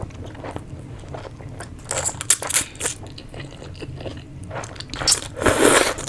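Close-miked eating of chicken thukpa noodle soup: a series of short bites and chewing noises, with the loudest, longest mouth noise about five and a half seconds in.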